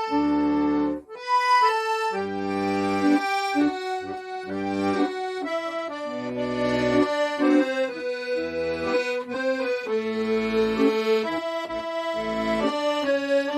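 Accordion playing a trot melody, with bass notes and chords pulsing underneath. The music dips for a moment about a second in.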